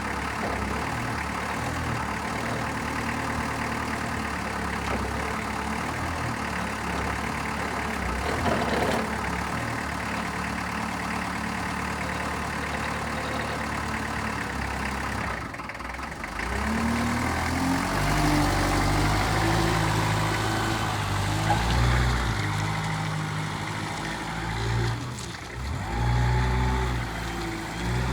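Datsun EF02 forklift engine idling steadily. About two-thirds of the way in it gets louder, and its speed steps up and down several times as it is revved.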